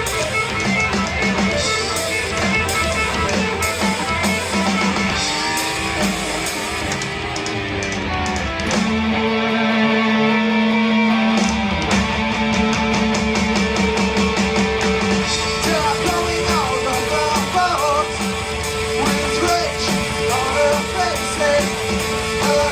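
Rock band playing an instrumental passage on electric guitars, bass and drum kit. The drums drop out for a few seconds near the middle under held guitar notes, then the full band comes back in.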